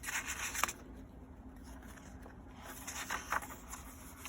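Paper rustling and scraping as the pages and tags of a handmade paper journal are turned and handled, in two short spells: at the start and again about three seconds in.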